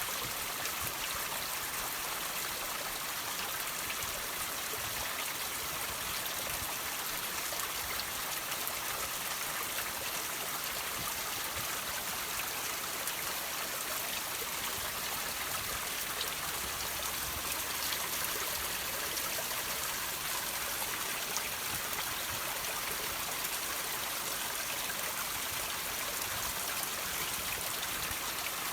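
Water trickling and dripping over rocks, a steady even splashing hiss with scattered small drips.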